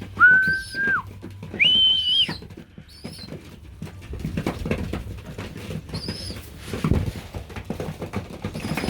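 Two steady whistled notes in the first couple of seconds, the second higher than the first: a keeper's whistle to call young racing pigeons in to be hand-fed. After them, soft clicking and shuffling from the pigeons, with a dull thump about seven seconds in.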